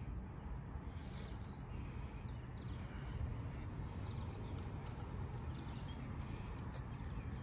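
Small birds chirping briefly a few times over a steady low background rumble.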